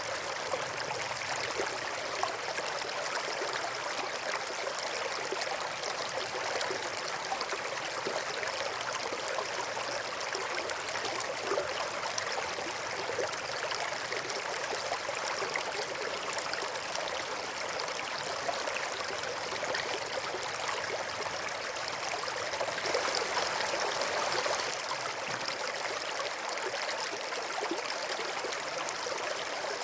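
Stream water flowing steadily, a continuous rushing and trickling, briefly a little louder about three-quarters of the way through.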